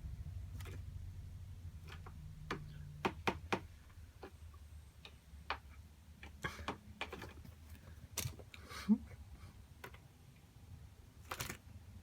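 Scattered light clicks and taps at irregular intervals, including a quick run of three about three seconds in, over a faint low hum that fades in the first few seconds.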